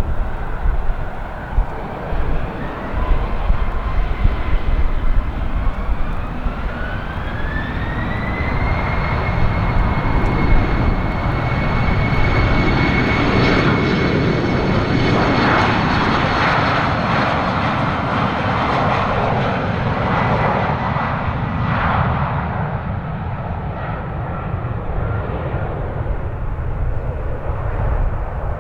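Embraer ERJ-190 jetliner's twin CF34 turbofans spooling up for takeoff, a whine rising in pitch over a few seconds and then holding steady. It gives way to a loud engine rush at full takeoff thrust, which fades as the jet climbs away. Strong gusty wind buffets the microphone.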